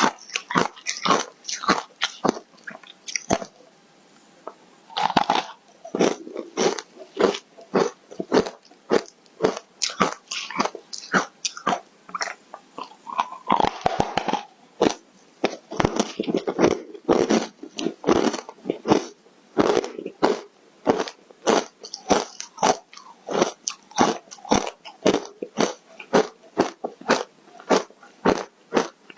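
Close-up crunching of foam ice being bitten and chewed, a rapid string of sharp crunches with a short pause near the start.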